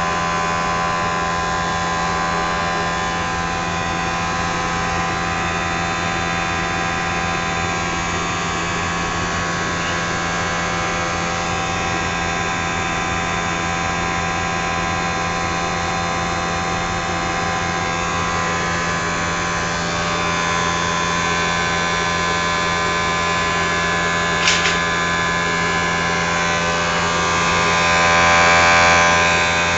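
Triangle blower motor running steadily: a constant hum under several steady whining tones, with one brief click about twenty-four seconds in and a short rise in level near the end.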